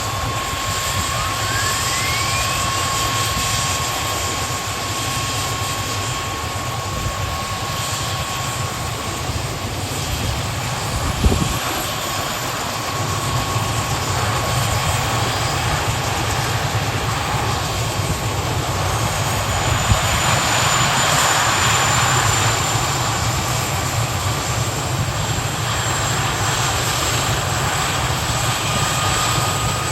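Kamov Ka-32 helicopter's twin turboshaft engines whining during startup. Near the start one whine rises quickly in pitch, and from about two-thirds of the way through a higher whine climbs slowly. A single brief thump comes about a third of the way in.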